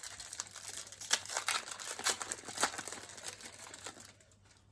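Trading-card pack wrapper crinkling and tearing as it is handled and opened: a dense run of crackles that stops about four seconds in.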